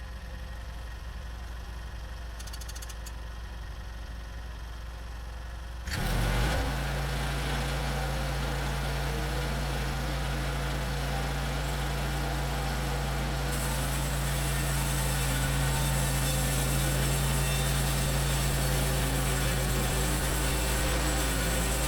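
Portable bandsaw sawmill's gas engine running steadily at low speed, then throttled up suddenly about six seconds in to drive the band blade, running loud and steady; about halfway through a stronger high hiss joins as the blade works into the log.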